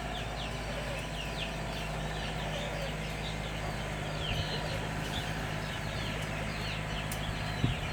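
Chickens chirping, many short high-pitched peeps overlapping without a break, over a steady low hum. A short knock sounds near the end.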